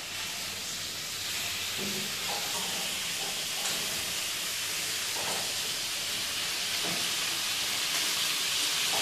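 Guinea fowl pieces sizzling in hot olive oil in a frying pan as they brown. A steady hiss that grows slightly louder toward the end.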